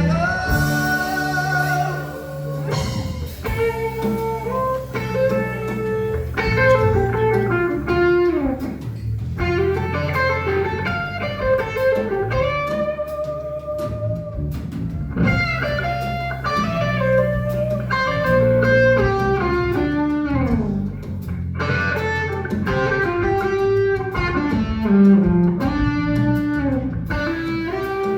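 Live blues-rock band playing an instrumental passage led by electric guitar, the lead line bending and sliding between notes over a steady low accompaniment.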